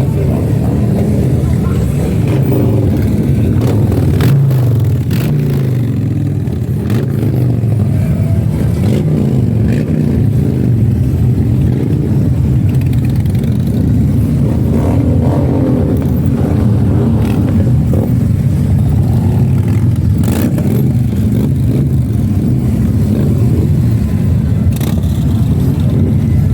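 Harley-Davidson motorcycle engines running and revving, a continuous low rumble that rises and falls in pitch.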